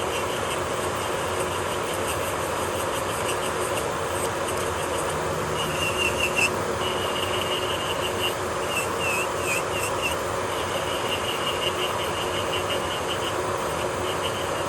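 Electric nail drill running steadily, its bit grinding on a nail, with a higher scraping that comes and goes about halfway through.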